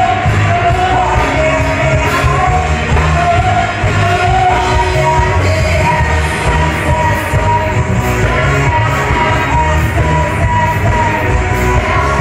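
Live band playing a song with a singer, loud and steady, over a heavy bass beat.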